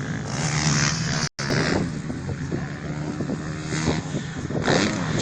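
Motocross bikes racing, their engines revving up and down, with wind buffeting the phone's microphone. The audio drops out for a split second about a second in.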